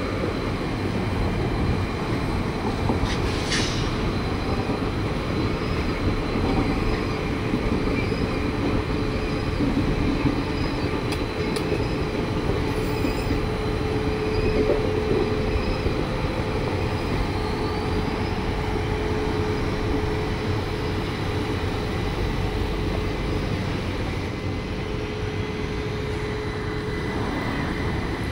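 Indian Railways passenger train coaches rolling past: a steady rumble of wheels on rails with a faint steady whine held through it.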